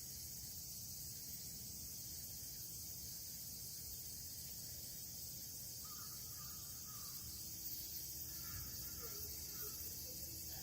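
Steady high-pitched insect chorus under a low background rumble, with a few faint bird calls in the second half.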